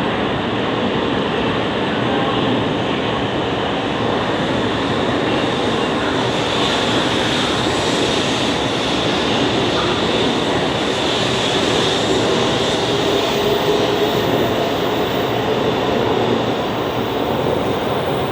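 JR East E2 series Shinkansen train pulling out of the platform and running past, a steady loud rush of wheels and running gear.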